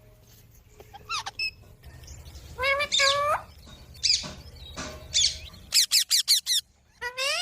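Pet green parrot calling: several separate squawks with bending pitch, then a fast run of about six short shrill calls near the end.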